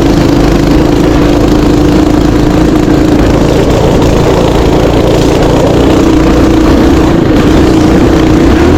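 Mini bike's small engine running at a steady, unchanging speed, with wind and rushing noise over it.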